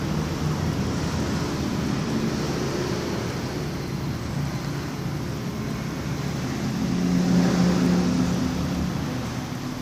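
Steady engine noise, with a louder engine hum swelling about seven seconds in and fading again.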